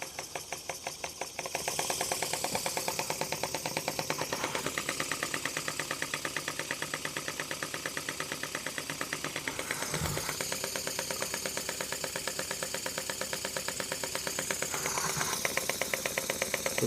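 Anton Bohaboy twin-cylinder marine model steam engine (1-inch bore, 1-inch stroke, 90-degree crank) running with a rapid, even beat of exhaust puffs over a high hiss. The beat grows louder about a second and a half in.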